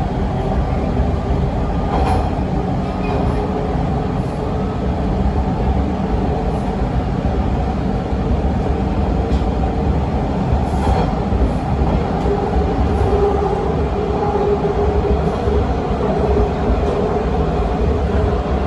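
Toronto TTC T1 subway train running between stations, heard from inside the car: a steady rumble of wheels on rail with a constant drone from the running gear, and a few brief clicks along the way.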